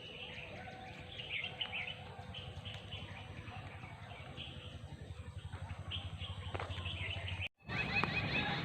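Small birds chirping and twittering in scattered short calls over a low steady rumble, cut off for a moment near the end.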